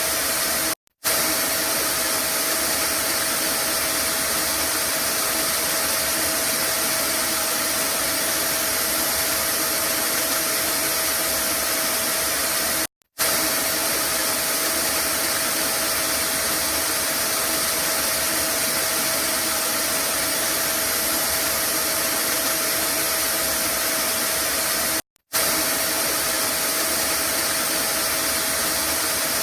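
Vacuum cleaner motor running steadily with an even rushing noise and a faint steady whine. The sound cuts out for a split second three times, about every twelve seconds.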